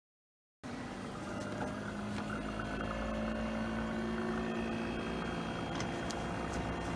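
Steady machine hum with a low drone, starting abruptly about half a second in, consistent with an air conditioner's outdoor unit running while it is being checked.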